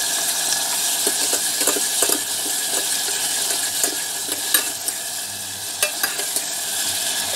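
Chopped onion and tomato sizzling in hot oil in a stainless steel pressure cooker while being stirred, the spoon scraping and clicking against the pot now and then.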